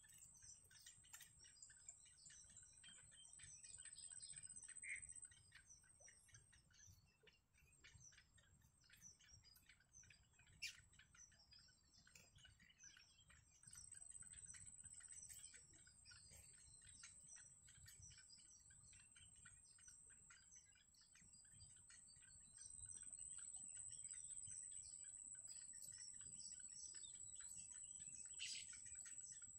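Faint, rapid high chirping and ticking of small birds, with a steady high-pitched whine running over it.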